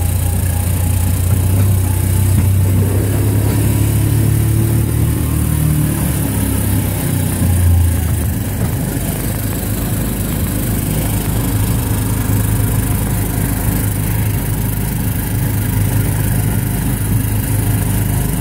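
Small gasoline engine of a Disneyland Autopia ride car running steadily under way, a low drone that dips slightly about eight seconds in.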